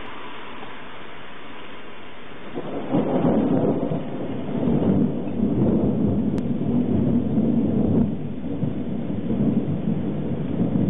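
Steady hiss of rain, then about two and a half seconds in a long, low rumble of thunder starts and rolls on in several surges.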